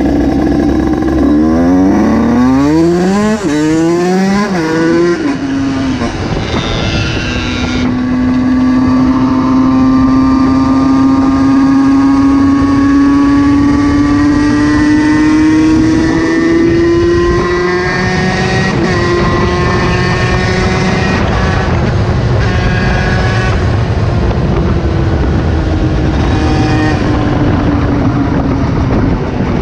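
Motorcycle engine accelerating hard, its pitch climbing and dropping back several times as it shifts up through the gears. It then settles into a steady run, the pitch slowly rising and easing off near the end.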